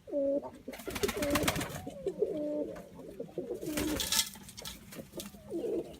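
White doves cooing repeatedly, in low calls that step between two pitches. Two spells of rustling, about a second in and again around four seconds in.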